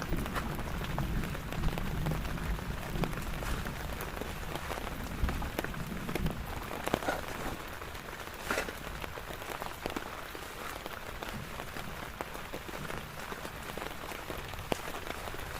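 Steady rain falling, with many individual drops striking sharply and irregularly over a continuous hiss.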